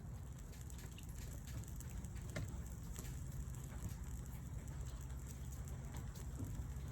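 Campfire burning on a stainless-steel mesh fire stand, crackling with scattered small pops over a steady low rush.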